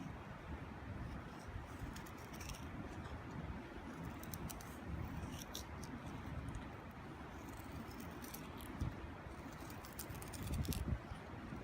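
Wood fire crackling: scattered sharp pops and ticks at irregular intervals, a few close together near the end, over a steady low rumble.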